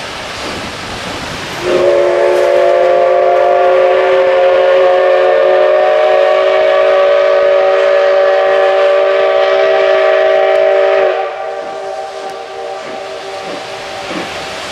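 SL Ginga's C58 steam locomotive whistle blowing one long blast of about nine seconds, starting about two seconds in: several steady tones sounding together as a chord. The blast cuts back to a faint trace over a steady hiss of steam and train noise.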